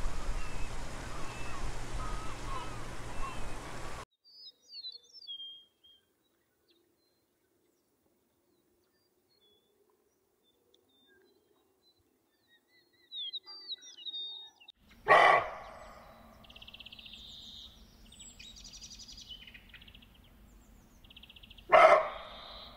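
Water washing over rocks with birds chirping, which cuts off suddenly to near silence with faint bird calls. Later come two loud sudden sounds about six seconds apart, with high chirping between them.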